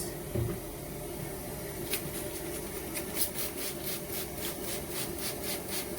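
Trigger spray bottle spritzing water, a quick run of short hissy squirts starting about two seconds in, over a steady hum of a fan or air conditioner.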